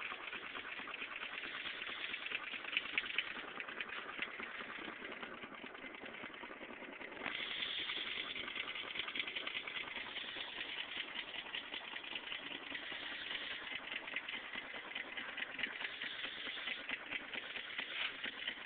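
Homemade paint-can Stirling engine running, its moving parts clattering in a fast, even stream of ticks over a steady hiss. It gets louder about seven seconds in.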